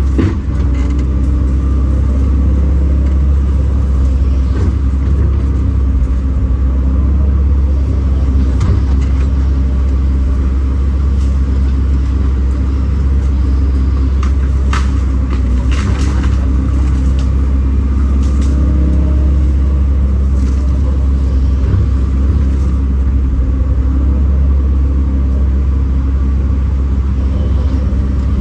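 Kobelco SK210 excavator's diesel engine running steadily under work, a deep drone whose pitch shifts a little as the hydraulics are worked. A few brief clicks and knocks come about halfway through.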